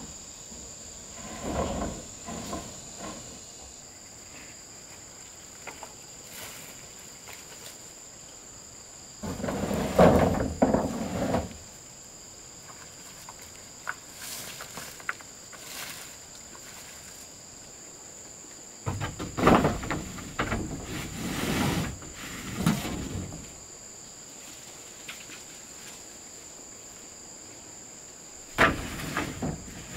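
Insects, crickets by their steady high chirring, keep up a constant background. Over it come four bursts of knocking and rough noise, a few seconds each, the loudest about ten seconds in and around twenty seconds in, from hands-on work with wood and tools.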